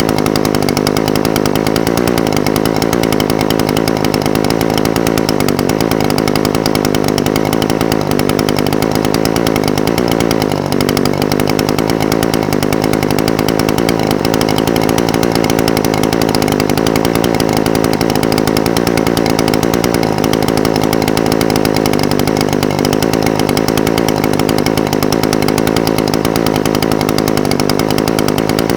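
Echo SRM-420TES brush cutter's two-stroke engine idling steadily, its idle speed wavering slightly and dipping briefly about ten seconds in.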